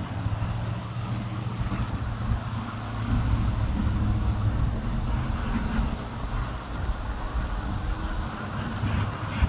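Diesel freight locomotive engine running with a steady low hum as the train comes through, swelling a little a few seconds in.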